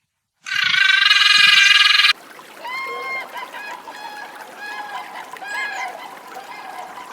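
Birds calling: one loud call that starts about half a second in and cuts off abruptly after about a second and a half, then a series of shorter, quieter calls over a faint hiss.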